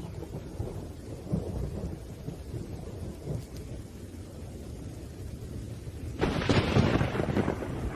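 Thunderstorm: thunder rumbling low over rain, with a sudden, louder crack of thunder about six seconds in that lasts over a second.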